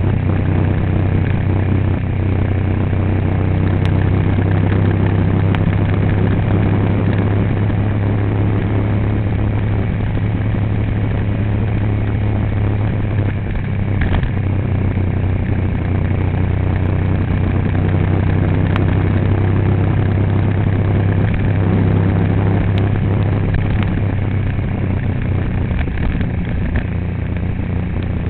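A vehicle's engine running at a steady low hum with road and running noise, as on a drive.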